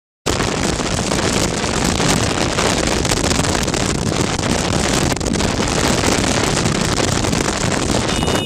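Loud, steady rush of wind and road noise from a moving vehicle, buffeting the microphone, cutting in suddenly a quarter of a second in.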